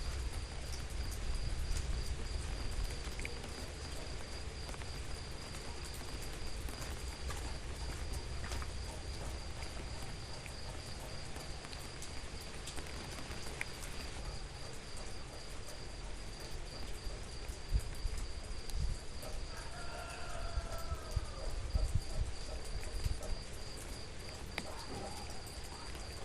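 Steady rain outdoors with scattered drops ticking, under a continuous high, finely pulsing insect trill. A brief call, a distant voice or animal, comes through about 20 seconds in.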